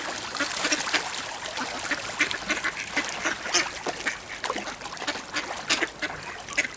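A group of ducks quacking and calling, many short calls in quick, irregular succession.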